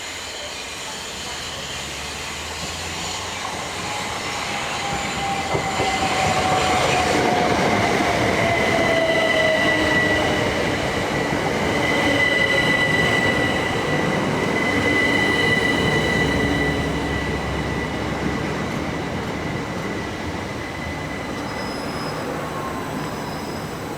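Class 375 electric multiple unit running into the station, growing louder as it approaches. Its motor whine falls slowly in pitch as it slows, over a high steady squeal from the train.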